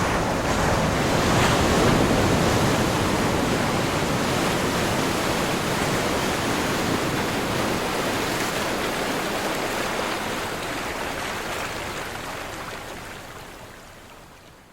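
Ocean waves crashing on a shore: a continuous wash of surf that swells about a second or two in, holds steady, then fades out over the last few seconds.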